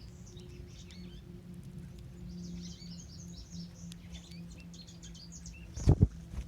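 A small songbird singing a quick, jumbled run of high notes, twice, over a low steady hum. Two loud thumps come about six seconds in.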